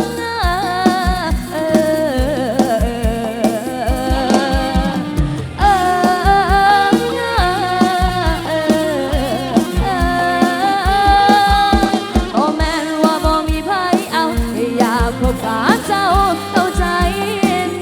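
Live Isan folk-pop band music from a rot hae sound truck: a bending, ornamented melodic lead over chords and a steady kick drum beat.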